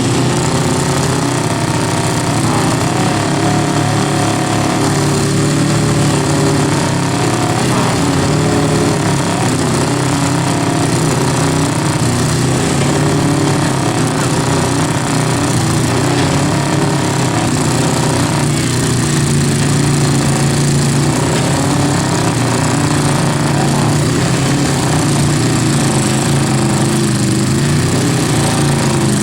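Two-wheel-drive trucks' engines run hard at high revs in a tug-of-war pull, a loud, steady drone whose pitch wavers a little as the load shifts.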